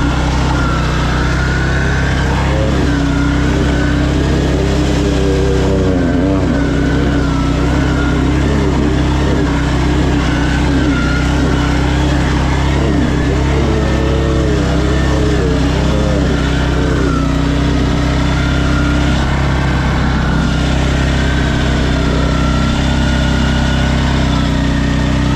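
ATV engine running under way, a steady low drone with a higher whine that rises and falls as the throttle and speed change.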